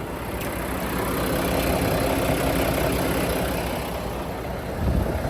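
Mack MP8 13-litre inline-six diesel engine idling steadily, which the inspector calls clean running with no blow-by.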